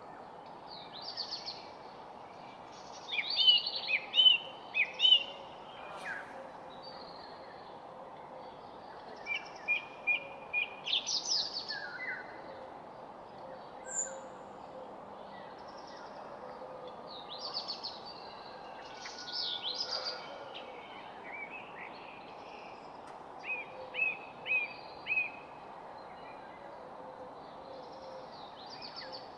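Wild songbirds chirping and singing in short, high phrases, several in quick runs, over a steady background hiss of outdoor ambience.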